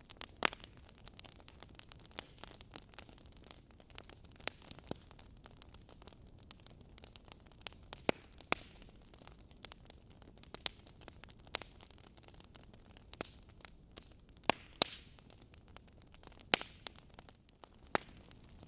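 Wood fire burning in a fireplace: a faint steady hiss broken by sharp, irregular crackles and pops from the burning logs.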